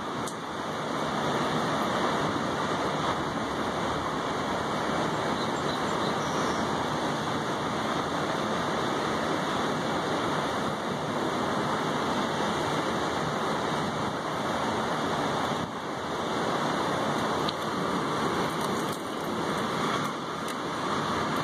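Steady rain falling on a balcony, an even hiss of rain striking the wet tabletop and railing.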